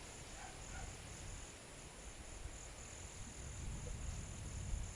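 Faint, steady high-pitched chirring of insects, with a little low rumble toward the end.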